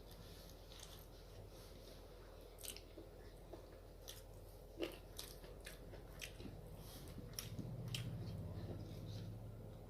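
A person chewing a mouthful of food close to the microphone: a scattered run of short, wet mouth clicks and smacks, one louder about five seconds in. Near the end a low hum rises under the chewing.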